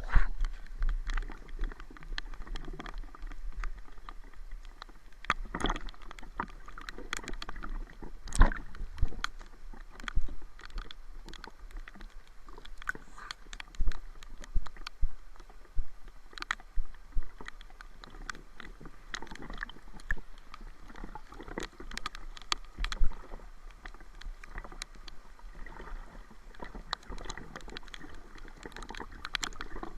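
Water sloshing and gurgling around the camera, with scattered irregular knocks and clicks.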